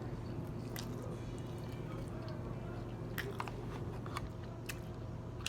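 Close-up chewing and wet, squishy mouth sounds of someone eating steamed shrimp, with several sharp clicks scattered through. A steady low hum runs underneath.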